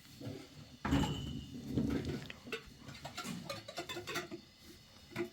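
A sudden bump about a second in, then a run of sharp clicks and knocks, as of household objects or a door being handled.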